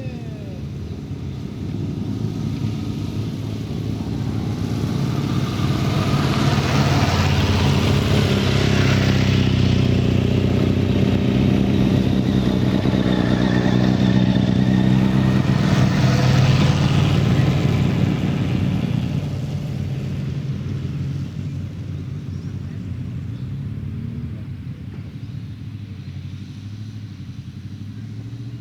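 Motorcycle engine running steadily, getting louder over the first several seconds, holding for about ten seconds with a rushing hiss over it twice, then fading off.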